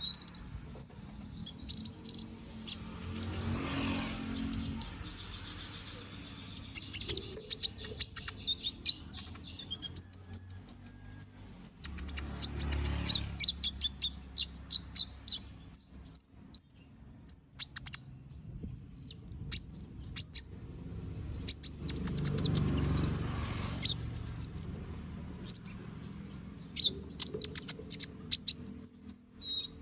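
Van Hasselt's sunbird (kolibri ninja) singing: bursts of rapid, very high-pitched twittering chirps separated by short pauses. The song is packed with fill-in phrases (gacor bongkar isian).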